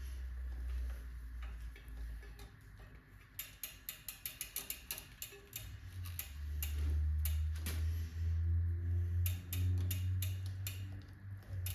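A bicycle chain and drivetrain clicking rapidly as a new chain is handled and fed through, in two runs of quick metallic ticks over a low rumble.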